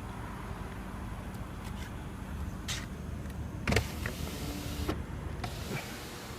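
Lexus LS 460 rear power window motor running, stopping with a clunk about 3.7 seconds in, then running again briefly and stopping with another clunk about 5 seconds in.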